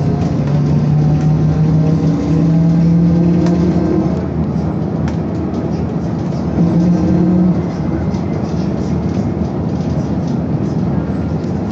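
BKM-221 trolleybus in motion, heard from inside: steady road rumble with an electric drive hum that holds one pitch, then steps to another, and drops out twice.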